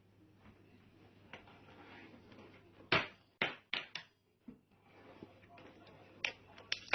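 A quick run of four sharp knocks or clatters of hard objects about three seconds in, followed by lighter taps and clicks.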